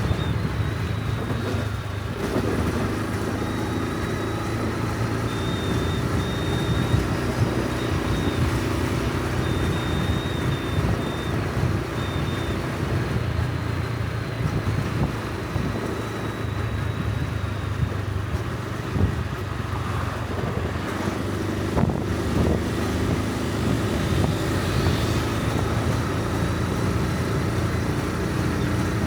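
Honda Super Cub C125's single-cylinder four-stroke engine and exhaust running steadily while riding, its note shifting a few times with speed, under wind and road noise at the helmet.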